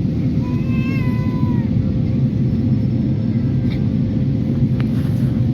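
Steady low rumble of an airliner's cabin noise in flight. About half a second in, a single high-pitched wailing cry lasts about a second.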